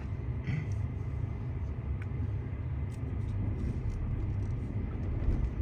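Off-road vehicle crawling over a rough, rutted trail: a steady low rumble of engine and tyres, with a few faint knocks.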